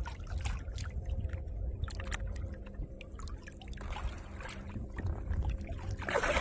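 Water lapping and splashing against the side of a small boat, with many small slaps and a steady low hum underneath. Two brief louder splashes come about four seconds in and near the end.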